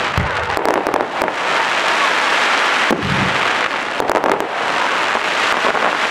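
Aerial firework shells launching and bursting one after another over a continuous crackle. Low thuds come near the start and about three seconds in, and sharp bangs about a second in, at three seconds and around four seconds.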